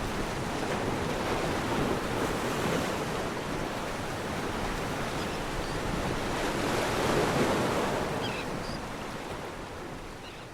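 Sea waves washing on the shore, a steady rush of surf that swells about seven seconds in and then fades away near the end.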